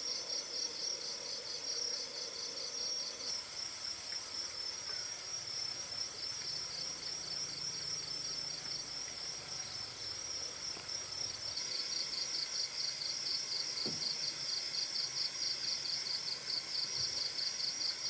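Insects chirring steadily in a fast, high-pitched trill. About two thirds of the way through, a second, even higher insect call joins, pulsing about three or four times a second.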